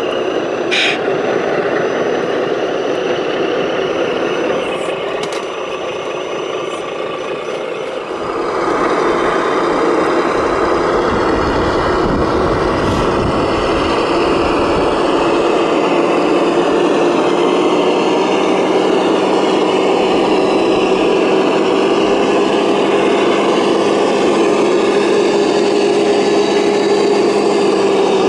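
Radio-controlled model truck running steadily, a held mechanical whine with a truck-engine character that grows louder about eight seconds in, with a few light clicks before that.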